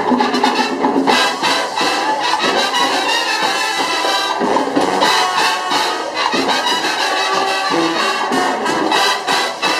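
Marching band playing, with brass carrying the tune over regular percussive hits.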